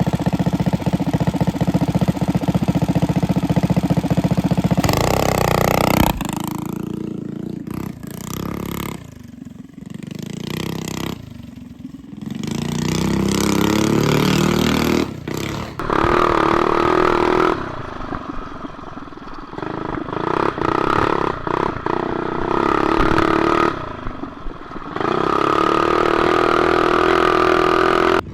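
Modified mini bike's single-cylinder engine running hard through a lap: held steady at full throttle, easing off briefly several times and revving back up, with a rising rev a little after ten seconds in.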